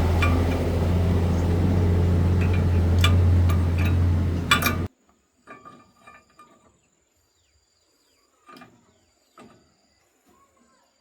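Motor of a rice separating machine running with a loud, steady, deep hum that cuts off abruptly about five seconds in. A few scattered knocks and clinks follow.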